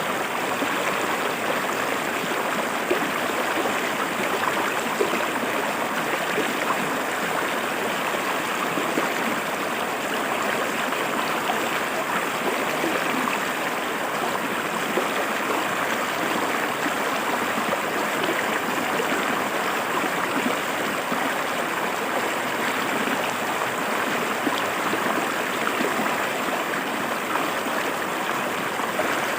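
Shallow river water flowing and splashing over rocks, a steady rushing with fine small splashes throughout.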